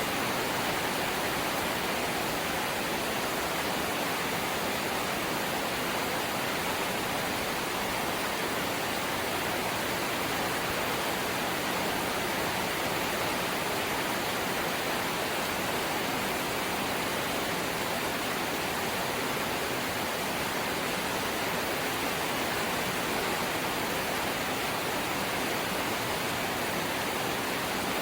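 Steady rain on a house's corrugated zinc roof: an even, unbroken hiss.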